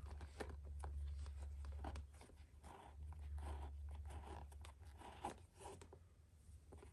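Leather glove lace being pulled and worked through the lacing holes of a baseball glove: faint scratchy rubbing with many small clicks of handling. A steady low hum runs underneath.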